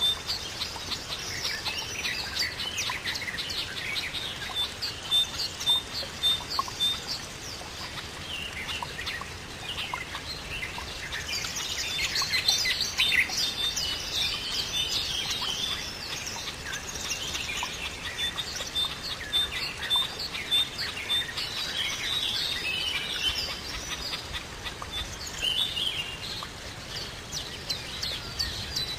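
Birdsong: several birds chirping and calling at once, with a run of evenly spaced high peeps near the start and again in the second half.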